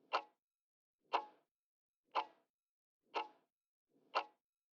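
Quiz countdown timer sound effect ticking once a second, five sharp ticks.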